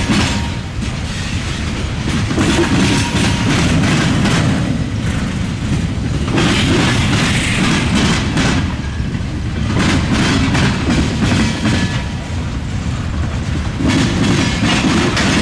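Freight train rolling past, its wheels clattering across a railroad diamond crossing, the noise swelling and easing every few seconds.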